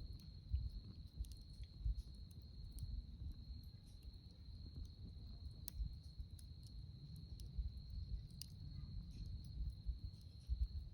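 Wood campfire crackling with scattered sharp pops over a low, uneven rumble, under a steady high-pitched insect trill.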